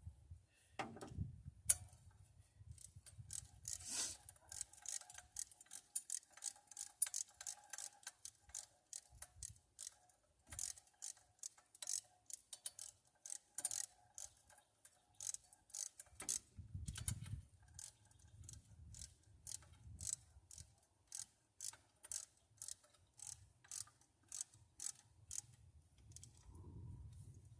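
Hand ratchet wrench clicking in a long run of quick, even clicks, a few a second, as exhaust manifold bolts are run down.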